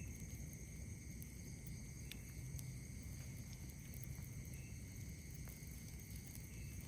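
Night insects trilling steadily at several high pitches, over a low rumble, with a few faint campfire crackles.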